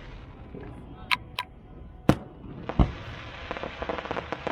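Fireworks going off: a few sharp bangs spaced out over the first three seconds, then a run of quick crackling pops near the end.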